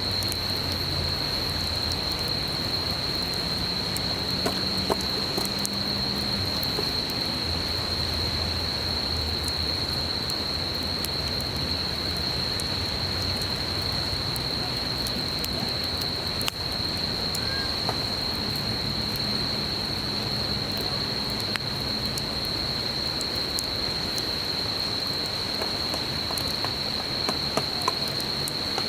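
Wood campfire crackling with scattered small pops over the steady rush of a flowing stream, while an insect holds one unbroken high-pitched note.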